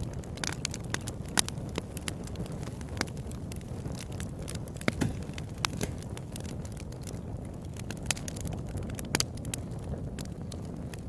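Wood campfire burning: irregular sharp crackles and pops over a low, steady rumble of flame.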